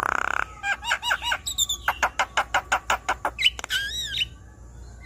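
Javan myna (jalak kebo) singing a varied song: a harsh rasp at the start, then repeated curved chirps, a fast run of clipped notes, and a wavering whistled phrase near the end.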